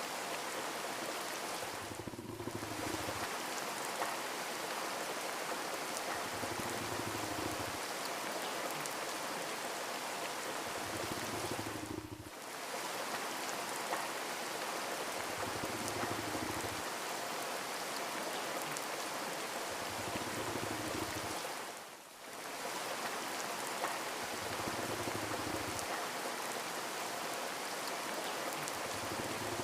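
Steady rain falling. The hiss dips briefly three times, about ten seconds apart.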